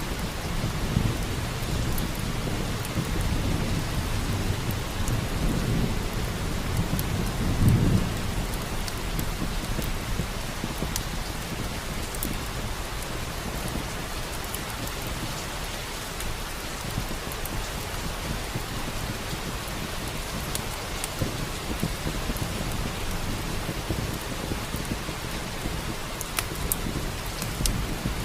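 Steady heavy rain with low rolling thunder that swells through the first eight seconds and then fades. Scattered sharp crackles from a wood fire in a fireplace run on top.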